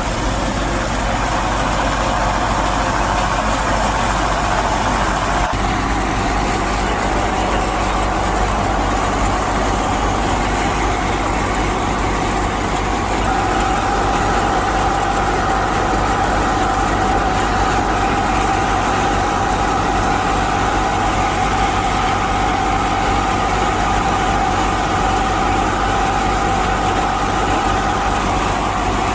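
Mini tractor's motor running steadily, its pitch shifting slightly about five seconds in and again around thirteen seconds.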